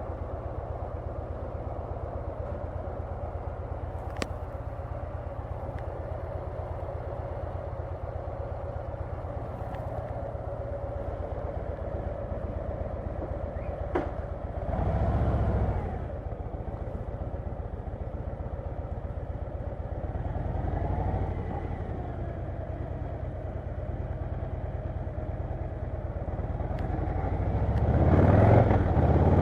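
Harley-Davidson Low Rider S V-twin engine running with an even, steady pulse, rising briefly twice with the throttle around the middle. Near the end it gets louder as the throttle opens and the bike accelerates.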